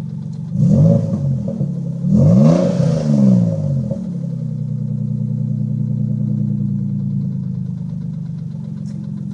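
1990 Nissan 300ZX's 3.0-litre V6 blipped twice, its pitch rising and falling each time, then settling back to a steady idle. The engine carries a loud tick that the owner is sure is a very bad lifter tick, not rod knock.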